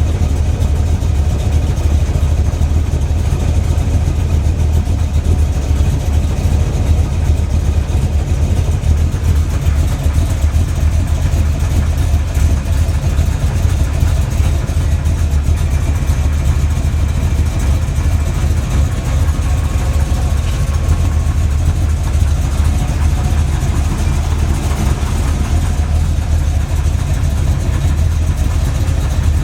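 Freshly built small-block Chevy 350 V8 with an Edelbrock four-barrel carburetor idling steadily. It runs with a knock that the owner suspects is piston slap or flexplate knock rather than rod knock, since it stays when each plug wire is pulled, plus an occasional tick he thinks could come from the carb.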